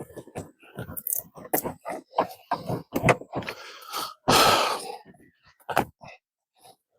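Brush and branches crackling and snapping as tangled trees are pulled apart by hand: a quick string of sharp cracks, with a louder rush of rustling leaves and twigs for about a second, about four seconds in.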